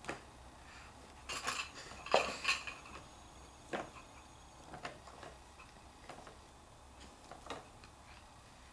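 Irregular light clicks and knocks of small hard things. A cluster comes about a second and a half in, then single ones every second or so.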